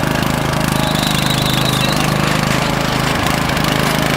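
Riding lawn tractor's small engine running steadily while being driven. A faint high whine comes in about a second in and lasts about a second.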